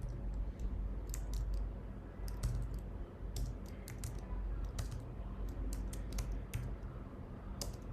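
Typing on a computer keyboard: irregular key clicks, a few a second, with short pauses.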